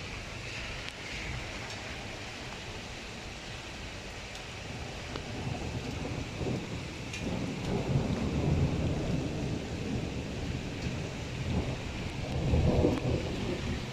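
Heavy rain falling steadily, with thunder rumbling low through the second half and swelling twice.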